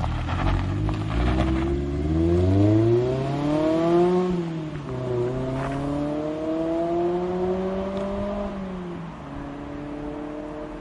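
Mazda MX-5 ND's inline-four engine through an Ulter sport exhaust, accelerating: the exhaust note climbs in pitch, drops about four and a half seconds in, climbs again, then falls back to a steadier, lower note near the end.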